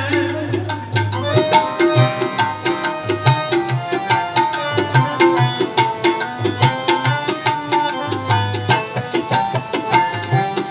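Instrumental interlude in a Sikh kirtan hymn: tabla playing a fast, steady rhythm under a melody of held notes, with no singing.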